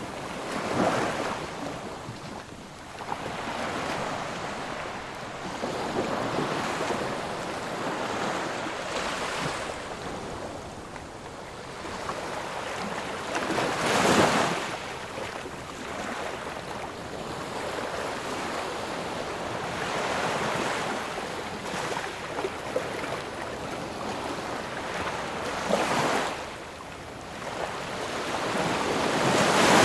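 Sea surf: waves washing onto the shore in a continuous rush, with a few stronger breakers swelling up about a second in, around the middle, and near the end.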